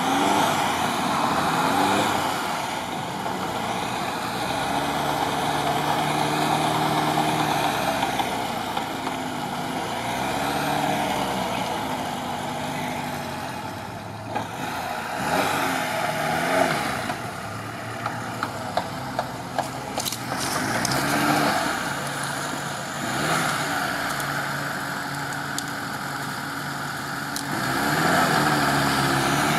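Lada Niva's engine revving up and falling back again and again as the car wades through deep muddy water, with the churning of water beneath it. A few sharp clicks come near the middle.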